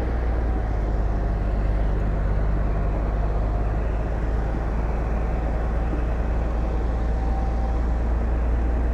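Heavy earthmoving machinery's diesel engine running steadily under load, a deep continuous drone, with a faint high whine in the middle.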